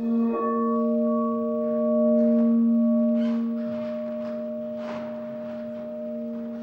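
Pink quartz crystal singing bowl ringing in a steady sustained tone, a low fundamental with several higher overtones. It swells around two seconds in and then eases slightly.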